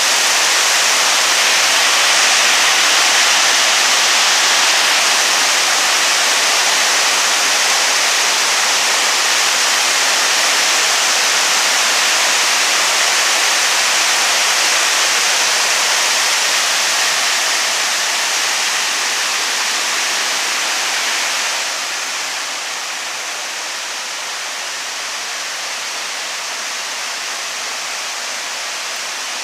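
Heavy tropical downpour, a steady dense rush of rain falling onto a flooded road. About two-thirds of the way through it eases slightly and grows a little duller.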